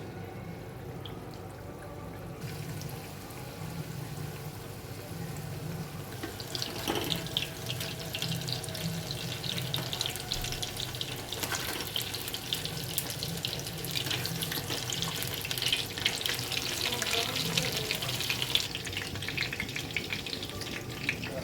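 Batter-coated chicken pieces deep-frying in hot oil in a kadai: a steady sizzle full of fine crackles. It starts faint a couple of seconds in, grows louder from about six seconds, and eases near the end.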